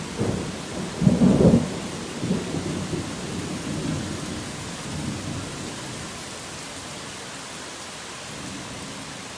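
Thunder rumbling over steady rain: a loud peal about a second in, its rumble dying away over the next few seconds, leaving only the even hiss of the rain.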